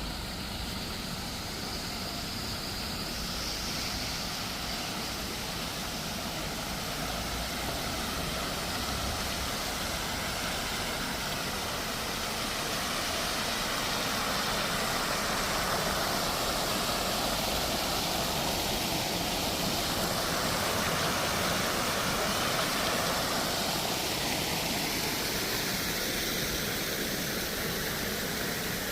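Steady hiss of a rain-wet city street, with traffic noise swelling louder in the middle and easing off again, as of a vehicle passing on the wet road.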